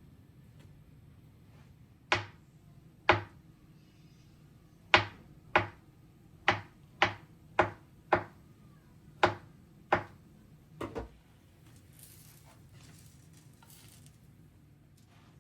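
Knife chopping on a cutting board: about a dozen single, unhurried chops at an uneven pace, the last two close together, then they stop.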